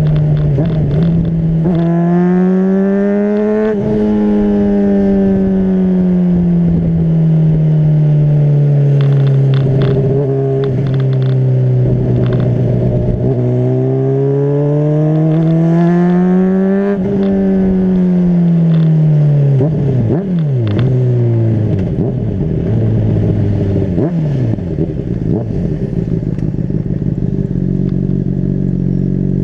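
Honda CBR600RR's inline-four engine under riding. The revs climb twice, each time followed by a long fall as the throttle comes off. Around twenty seconds in the pitch drops quickly a few times, then the engine settles into a steady lower note.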